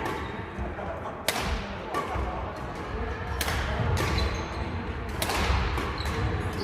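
Badminton rally in a hall: three sharp racket strikes on the shuttlecock about two seconds apart, each ringing briefly, over dull thuds of players' feet on the court.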